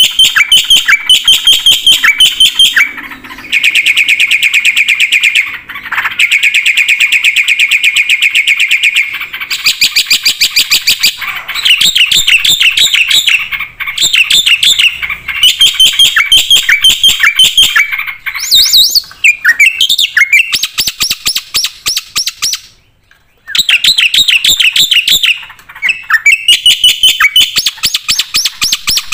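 Black-winged myna (jalak putih) singing loudly in rapid chattering trills and fast repeated notes, with a short pause about 23 seconds in.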